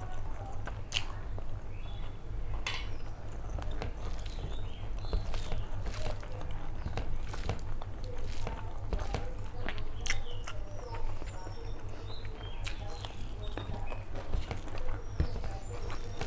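Close-miked eating by hand: wet chewing with frequent smacking, clicking mouth sounds, and fingers squishing curry-soaked rice on a plate, over a low steady hum.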